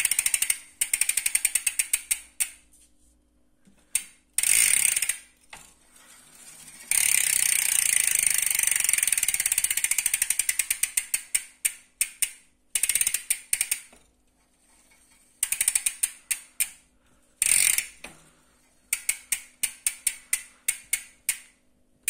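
Hope Pro II rear hub freewheeling: a loud, high-pitched buzz of rapid pawl clicks each time the wheel is spun. Each run slows into separate clicks as the wheel coasts down, and the hub is spun up again several times.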